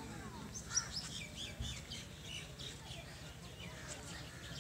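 Small birds chirping in the trees: a quick run of short, high chirps in the first three seconds. A single low thump about a second and a half in.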